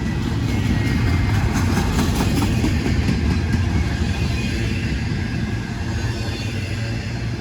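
Freight train passing, a steady low rumble of the cars, with a quick run of clicks between about one and a half and three and a half seconds in.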